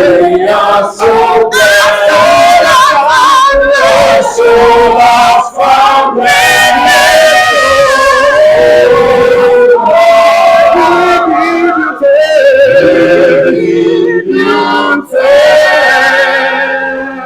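Several voices singing a worship song together, loud, with long wavering held notes. The singing drops away right at the end.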